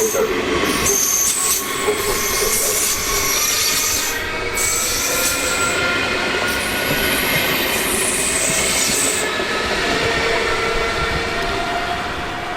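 A train moving through a station, its wheels squealing on the rails in high tones that come and go, over the steady running noise and several tones that glide slowly in pitch.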